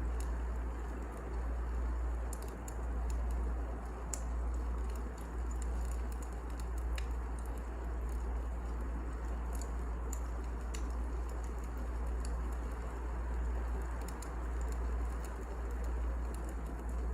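Wood fire burning: a steady low rumble and hiss with scattered sharp crackles and pops.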